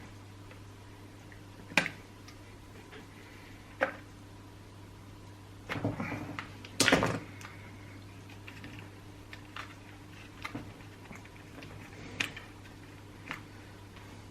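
Scattered clicks and knocks of chainsaw parts and tools being handled, with a denser cluster of knocks about halfway through, over a steady low hum.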